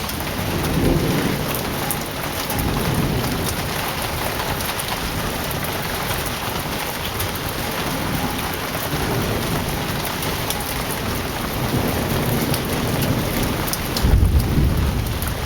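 Heavy rain pouring steadily, with thunder rumbling low a few times and a louder deep roll of thunder starting near the end.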